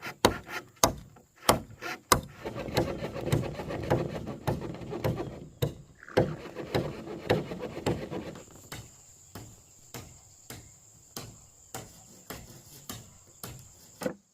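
Wood being worked by hand: irregular knocks with a stretch of rubbing and scraping in the first half. From about halfway in, a steady high insect buzz runs under sparser knocks.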